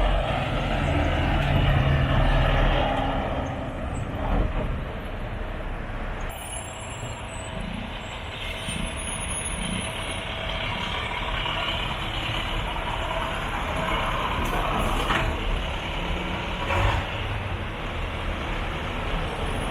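Heavy trucks' diesel engines running as they pass in a parade, with a deeper rumble that is loudest in the first few seconds and then eases off.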